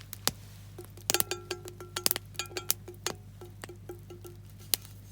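Sharp, irregular crackling pops of garlic starting to fry in oil in a deep campfire frying pan over a wood fire.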